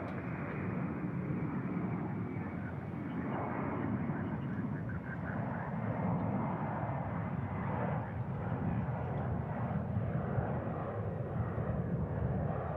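Jet airliner engine noise: a steady, loud rumble with no clear start or stop.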